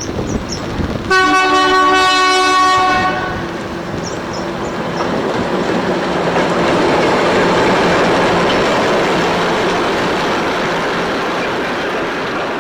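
Alco diesel locomotive 844 blows its horn once, a chord held for about two seconds, then runs past with its engine and wheels loud, easing off slightly near the end.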